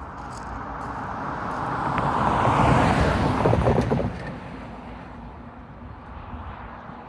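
A road vehicle passing by over the grade crossing. Its tyre and engine noise builds to a peak, with a few quick knocks as it goes over the crossing, then falls away about four seconds in.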